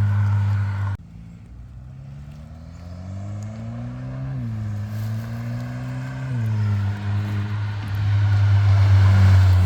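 Hyundai Sonata N-line's turbocharged four-cylinder through a custom straight-through-muffler exhaust, a steady loud drone that drops suddenly quieter about a second in. The pitch then climbs as the engine revs, dips briefly, holds, and settles back into a loud steady drone near the end.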